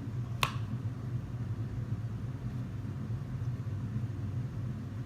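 Motorized toy train running along its track: a steady low motor hum, with a single sharp click about half a second in.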